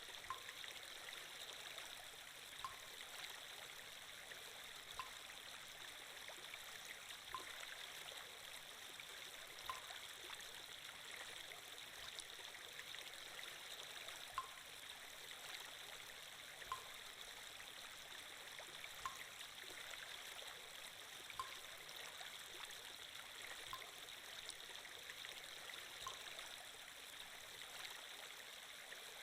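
Faint, steady running-water sound effect, a stream-like flow, with a soft tick about every two and a half seconds.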